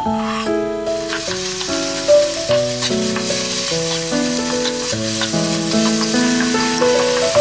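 Crumbled tofu sizzling in a hot nonstick frying pan as it is stirred with a wooden spatula, its moisture cooking off. The sizzle starts about a second in, over a background tune.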